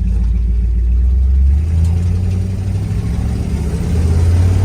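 1972 Ford F250 pickup's engine running through dual exhaust with Cherry Bomb mufflers while driving. The low exhaust drone steps up in pitch about one and a half seconds in and rises again near the end as the truck accelerates.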